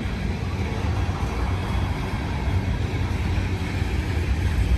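Freight train rolling past: a steady low rumble of wheels on rail.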